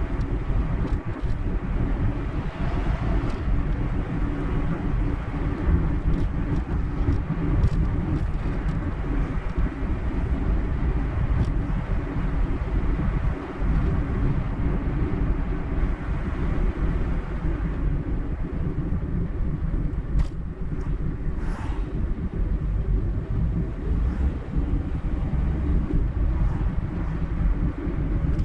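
Car travelling at road speed: steady tyre and engine noise with a low rumble, with a few light ticks.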